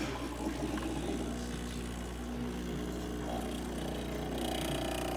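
Breville 980 dual-boiler espresso machine pulling a shot, its water pump running with a steady low hum.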